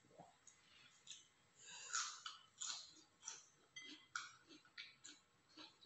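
A person chewing a mouthful of food: a faint string of soft clicks about two a second.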